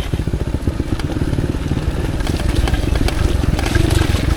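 Off-road motorcycle engine running at low revs, an even rapid pulsing that grows a little louder toward the end, with scattered faint clicks over it.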